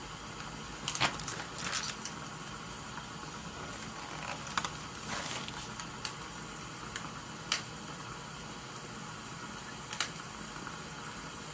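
Wood-fire crackling and rain ambience: a steady hiss with scattered sharp pops and clicks, and a few brief louder rustling bursts about a second in and around five seconds.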